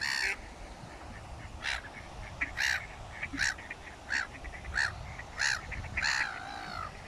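Waterfowl on a pond calling in a run of short calls, about one every second, with softer calls in between.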